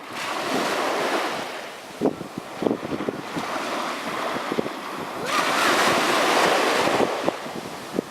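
Sea waves breaking and washing up the beach: one surge of surf at the start and a stronger one about five seconds in, with wind buffeting the microphone.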